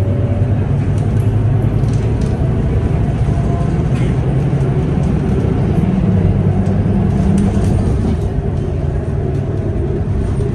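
City bus engine and drivetrain running steadily while the bus is under way, heard from inside the passenger cabin: a deep drone with a faint whine gliding upward in pitch.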